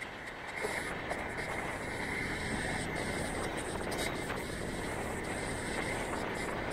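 Passenger train running along the track, heard from aboard: a steady noise of wheels on rails and moving air that gets louder about half a second in.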